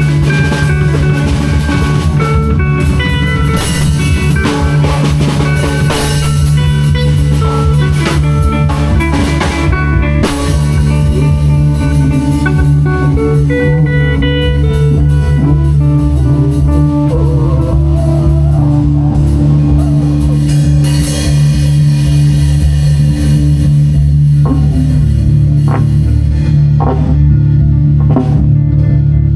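Live improvised band jam: guitar playing melodic lines over a drum kit and a steady held low note. The drumming thins out to a few separate hits in the last few seconds.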